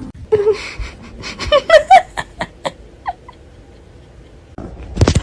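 A cat's short squeaky chirping calls in a quick run, then a sharp knock and one longer rising-and-falling meow near the end.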